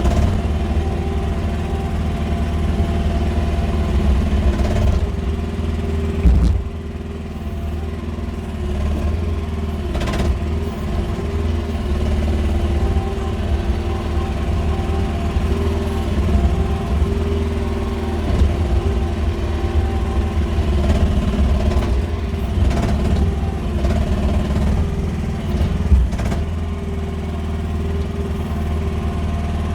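QH13R mini excavator's engine running steadily as the machine works, with a couple of sharp knocks about 6 seconds in and near the end.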